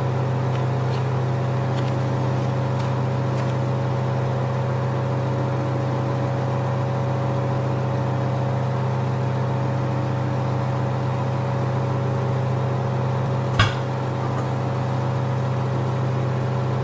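Microwave oven running with a steady hum while cooking eggs in a cup, with a single sharp pop about three-quarters of the way through.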